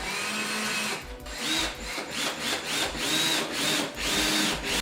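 Cordless drill/driver spinning up with a rising whine, then run in short trigger pulses, each revving up and back down, about two a second, as it drives screws.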